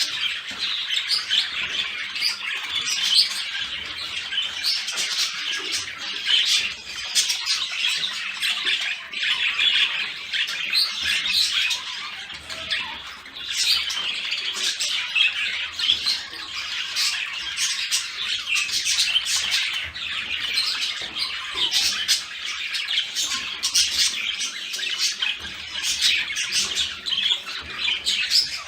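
Budgerigars chattering and warbling nonstop, a dense stream of overlapping chirps with many short sharp calls.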